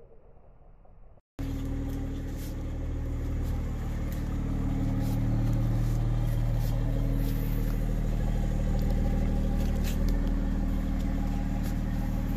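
A 2021 Toyota GR Supra's engine idling steadily, a low even drone from the exhaust. It cuts in suddenly about a second in.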